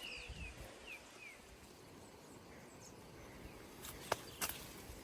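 Birds calling outdoors: a few short, falling chirps in the first second or so. Near the end come two sharp clicks about half a second apart.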